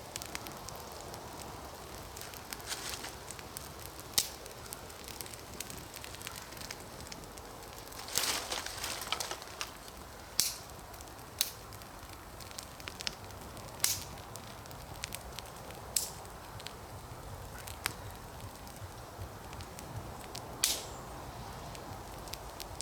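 Newly lit campfire burning, crackling and popping irregularly with sharp snaps every few seconds and a quick run of crackles about eight seconds in.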